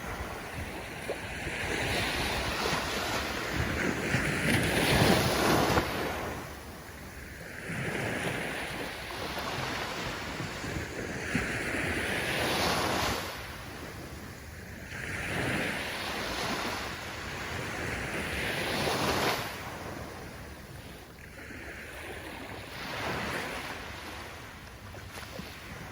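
Ocean surf: waves breaking and washing in, the rush of water swelling and ebbing about every six seconds.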